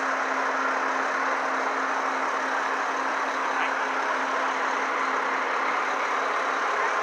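Heavy truck engine idling steadily amid street noise, with a low steady hum that drops away near the end.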